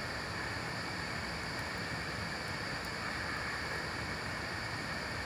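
Steady rushing water noise from rain and the nearby stream, with a few faint high ticks about two seconds in.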